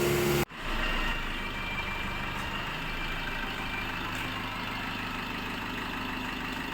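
A machine hums steadily at an even pitch, cut in abruptly about half a second in.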